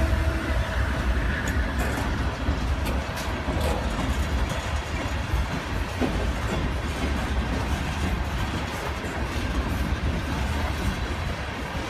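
Norfolk Southern freight cars (covered hoppers, a boxcar, tank cars) rolling past at close range: a steady low rumble of wheels on rail, with scattered clicks as the wheels cross the rail joints.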